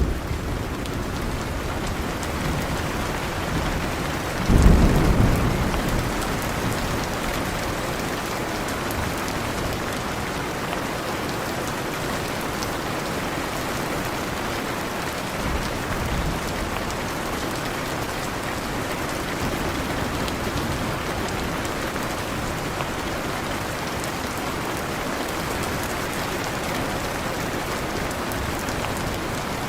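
Heavy rain falling steadily, with a loud thunder clap about four and a half seconds in that rolls away over a second or two, and a fainter rumble of thunder around sixteen seconds.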